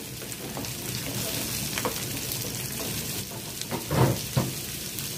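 Chopped onions sizzling in hot coconut oil in a frying pan, with a few knocks of a wooden spatula against the pan as they are stirred, the loudest about four seconds in.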